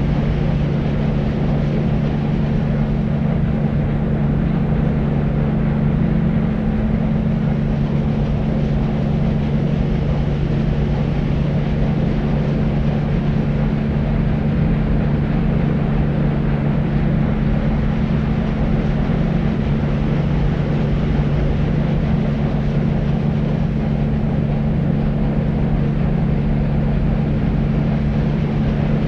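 Deep white noise for sleep: a steady, unchanging low rumbling hiss, heaviest in the bass, with a low hum running steadily underneath.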